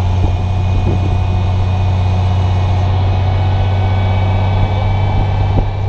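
A heavy engine running steadily at one speed, with a thin steady whine above it.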